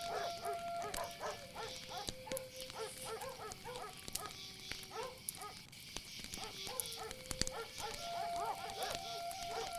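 Soft relaxation music of long held notes laid over a night nature recording: a steady high insect chorus and many short repeated animal calls.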